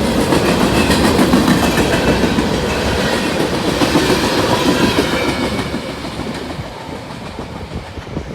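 CSX manifest freight train's cars rolling past on the rails, growing quieter over the last few seconds as the train moves away.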